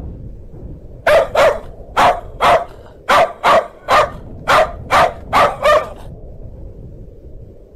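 Dog barking loudly, a rapid run of about eleven barks, mostly in pairs, from about a second in until about six seconds in. A steady low background noise runs underneath.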